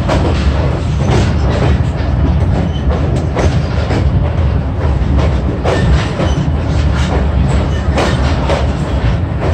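Passenger train rolling along the track: a steady low rumble with irregular clicks and clacks of the wheels over the rails.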